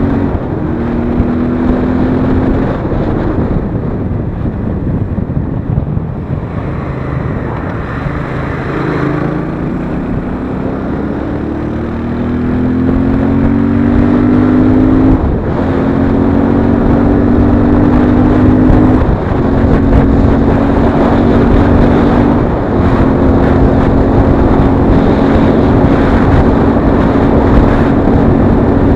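Royal Enfield Interceptor 650's parallel-twin engine under way, its note rising as it pulls and dropping sharply at each of several upshifts, then holding steady at a cruise.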